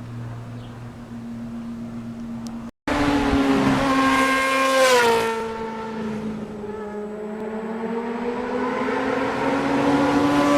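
A steady low hum, then after an abrupt cut a motorcycle engine at high revs. Its pitch drops sharply about two seconds after the cut, climbs slowly as it accelerates, and drops again near the end, like gear changes under way.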